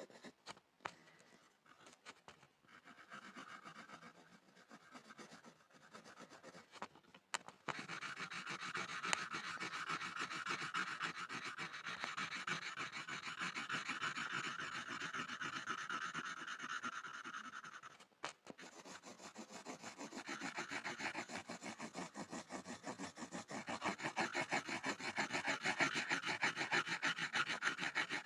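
Pencil scribbling on a board, rapid back-and-forth scratching strokes. It is light and sparse at first, then turns dense and steady about eight seconds in, pauses briefly near the middle, and grows louder toward the end.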